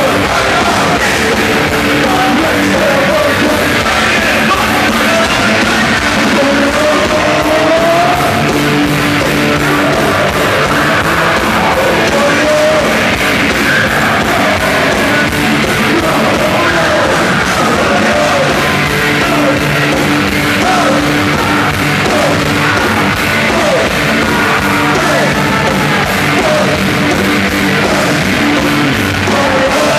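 Live hard rock band playing loud, with distorted guitars, drums and shouted singing.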